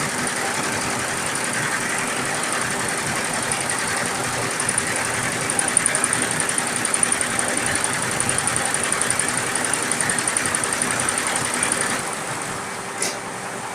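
Computerized embroidery machine running and stitching: a steady mechanical whir with a fast, even needle rhythm. Near the end it gets quieter, and two short clicks follow.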